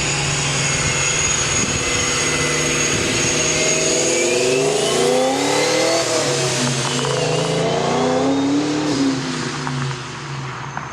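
Ford Mustang GT's 4.6 L two-valve V8 running through long-tube headers and Flowmaster mufflers, its engine note rising and falling several times between about four and nine seconds in as it is revved.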